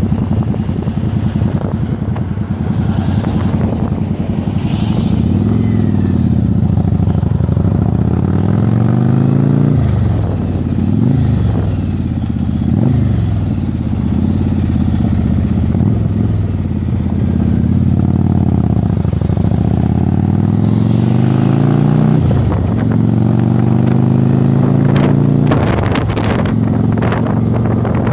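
Yamaha Virago 1100's V-twin engine on the move, the revs climbing and dropping back again and again through gear changes. Wind buffets the microphone, heaviest near the end.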